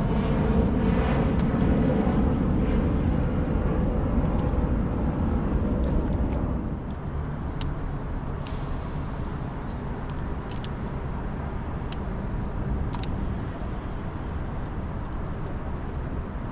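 A steady engine drone that fades about six to seven seconds in, leaving a low background rumble with a few sharp clicks and a short hiss around the middle.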